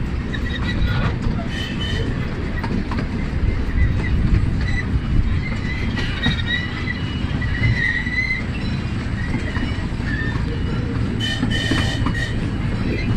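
Small amusement-park ride train running along its track: a steady low rumble with wheels squealing faintly on the rails, loudest about eight seconds in.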